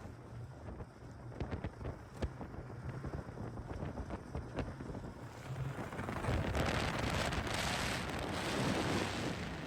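Wind buffeting the microphone, with a low rumble and a few scattered clicks, swelling into a louder gust about six seconds in.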